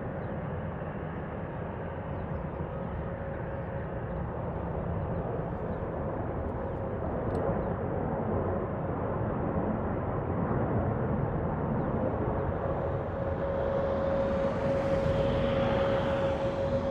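Airliner engines running, a steady noise with a constant hum, growing louder through the second half as a hiss swells about fourteen seconds in.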